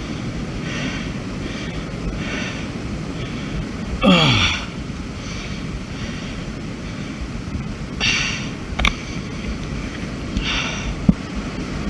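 A climber breathing hard, one heavy breath after another, with a loud sigh that falls in pitch about four seconds in. A low rumble of wind on the microphone runs underneath, and two sharp clicks come near the end.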